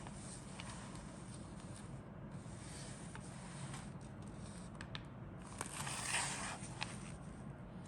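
Light handling noise of a model kit's contents: scattered small clicks and rustling, with a louder brief rustle about six seconds in, over a steady low hum.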